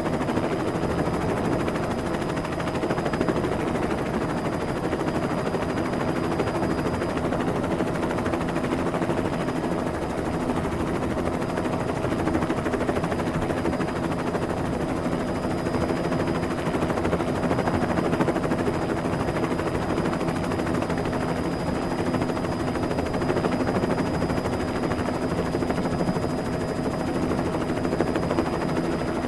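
Helicopter sound effect: a steady, fast rotor chop with constant whining tones, holding an even level.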